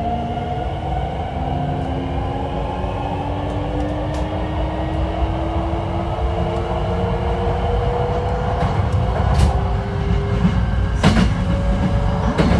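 Hankyu 9300 series electric train heard from inside the car: its Toyo IGBT inverter and traction motors whine in several tones that rise slowly as the train gathers speed, over a steady rumble of wheels on rail. A sharp knock about eleven seconds in.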